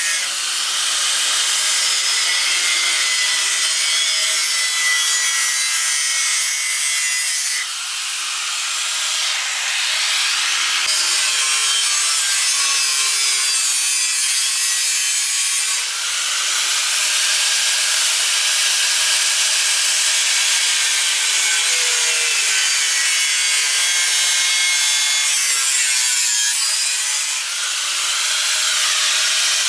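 A tool cutting steadily, a continuous loud hissing rasp with a faint shifting whine. It breaks off and resumes in segments about every eight to ten seconds.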